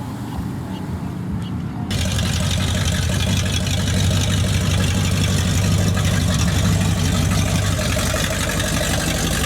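Car engines running as vehicles roll in at low speed; about two seconds in the sound cuts abruptly to a louder engine with a steady low rumble.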